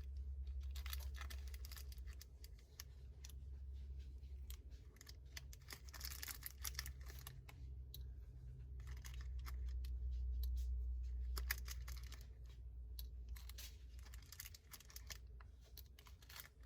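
Small clicks and scrapes of tiny fake ice pieces being picked up and dropped into a miniature cup, irregular throughout, over a steady low hum.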